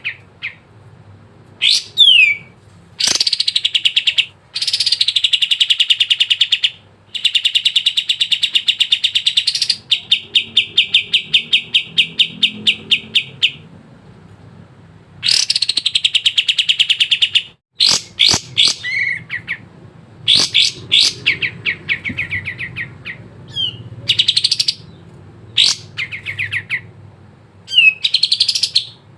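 Kapas tembak songbird singing in loud, fast chattering phrases: long runs of rapidly repeated notes lasting several seconds each, broken by short pauses and a few quick downward-sliding notes.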